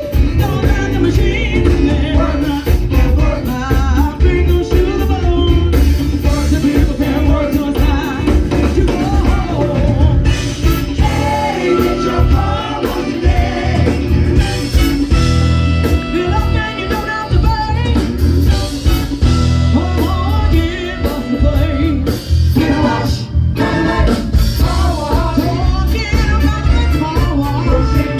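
Live soul band playing a funk song: singing over a steady beat of drum kit and bass.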